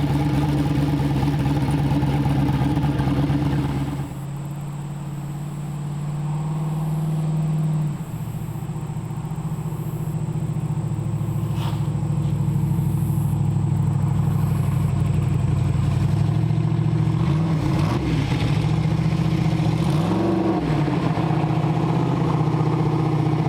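Twin-turbo 5.3 L aluminium LS V8 in a 1976 Chevy Vega idling steadily. The engine note changes abruptly about four seconds in and again near eight seconds, and there are a couple of brief throttle blips near the end.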